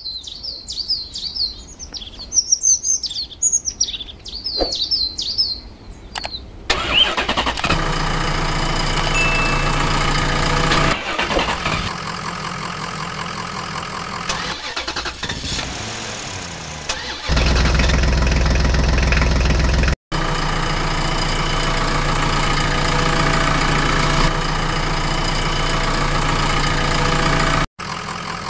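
Birds chirping for the first several seconds, then a vehicle engine starting and running, laid in as sound effects: the engine sound is made of spliced pieces that cut and change abruptly several times.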